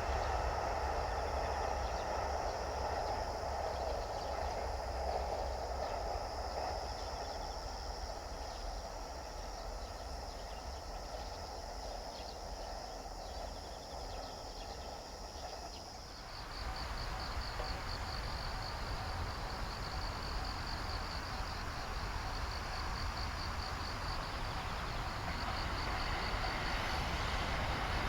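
A train's rumble fading away. About halfway through, the sound switches abruptly to quieter ambience with insects chirping in an even high pulse, and a rumble builds again near the end as the next train comes in.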